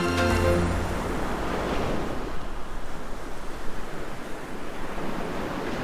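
Ocean surf washing in a steady, even hiss, with no distinct breaks or other sounds.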